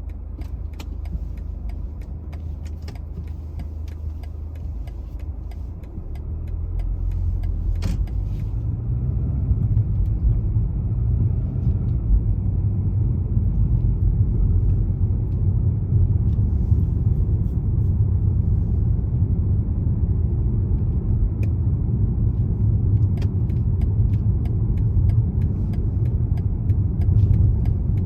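BMW 320d xDrive driving: a low engine and road rumble that swells about six to nine seconds in as the car speeds up, then holds steady. Light clicks and rattles come in the first few seconds and again near the end.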